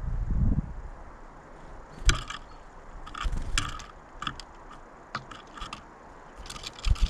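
Irregular sharp clicks and scrapes close to the microphone, about eight in five seconds, as of birds landing and pecking on a bird feeder. A gust of wind rumbles on the microphone in the first half second.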